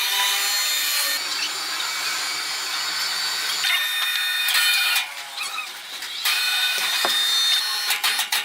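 A sawmill saw cutting through wood: a steady high-pitched whine over the rasp of the cut. It eases off for about a second midway, then picks up again, with a few sharp knocks near the end.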